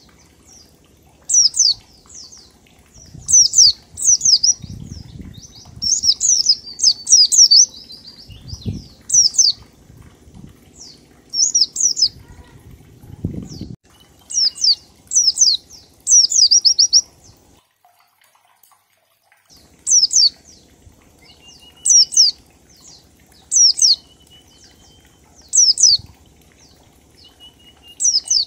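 White-eye (pleci) singing in the 'ngalas' style: short bursts of rapid, high, falling notes, repeated every second or two, with a brief gap about two-thirds of the way through. A low rumble runs beneath the song in the first half.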